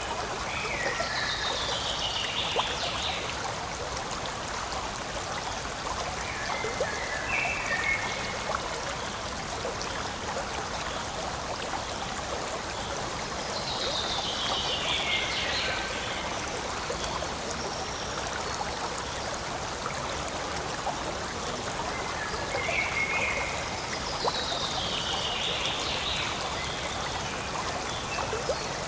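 Forest stream flowing steadily over rocks. A short high call that slides down in pitch rises above the water three times, about twelve seconds apart, with fainter chirps between.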